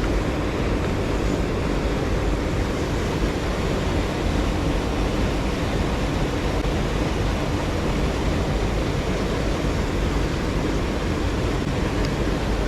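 Mountain stream water rushing steadily over rocks, an even noise heavy in the low end.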